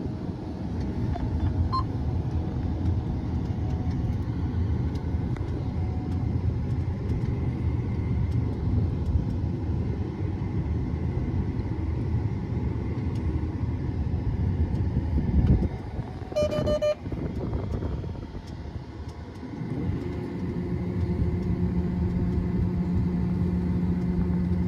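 Combine harvester running in the wheat field, a steady low rumble of its engine and machinery. About two-thirds of the way through there is a short horn-like beep. Near the end the rumble changes to a steadier low hum.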